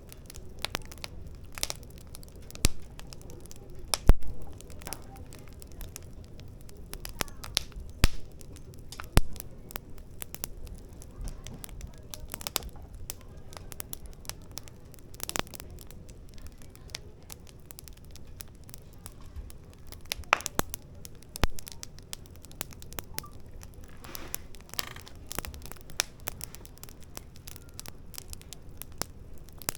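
Firewood fire crackling in a fire pit: irregular sharp pops and snaps, some much louder than others, over a low steady hiss of burning.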